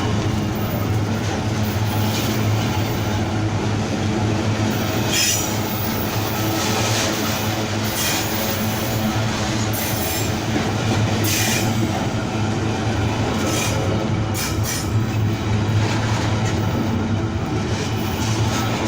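Freight train rolling past: a steady rumble of wheels on rails with a low hum underneath, broken several times by short, high wheel squeals.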